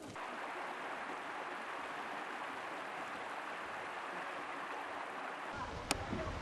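Stream water rushing steadily over rocks. About five and a half seconds in a low rumble joins it, with a single sharp click shortly after.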